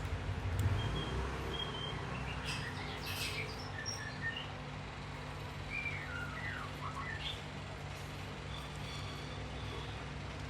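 Small birds chirping intermittently, short scattered calls, over a steady low hum.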